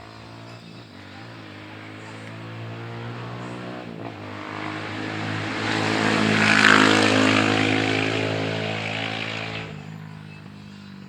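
A motor vehicle passes by: its engine grows steadily louder to a peak about two-thirds of the way through, then fades away.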